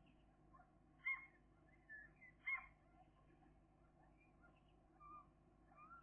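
Faint bird calls over a steady low hum: two short, sharp calls about a second and two and a half seconds in, with softer calls scattered through.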